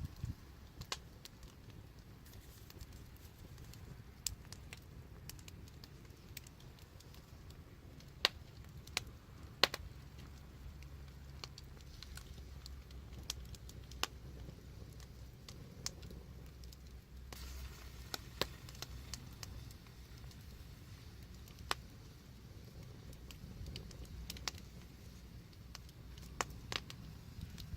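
Wood fire crackling: irregular sharp pops and snaps over a low steady rumble, with two louder pops about eight and ten seconds in.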